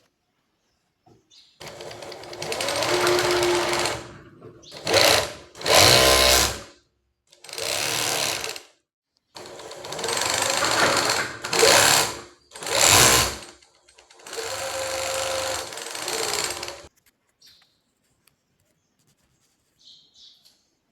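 Siruba C007J industrial sewing machine with puller stitching in about eight runs of start-stop sewing, each lasting from under a second to a few seconds. It stops a few seconds before the end.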